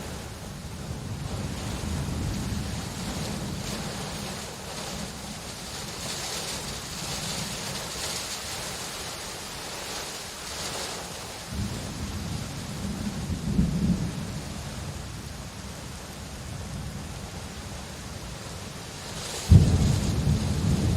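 Steady rain with thunder: a low rumble rolls through the middle, and a sharp, loud thunderclap breaks near the end and rumbles on.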